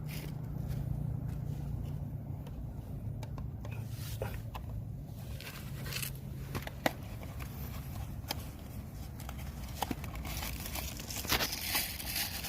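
Scrapes and scattered clicks of parts being handled during work on a Suzuki Jimny's transmission, with one sharp click about seven seconds in, over a low steady hum.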